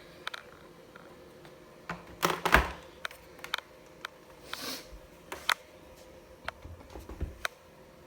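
Scattered sharp clicks and knocks, with a louder rattling clatter about two seconds in and a short hiss midway, over a faint steady hum.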